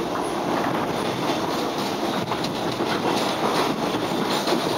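Inside a moving Melbourne Metro electric suburban train: the steady running noise of the car with wheels clattering over the rails, giving irregular clicks over a continuous rumble.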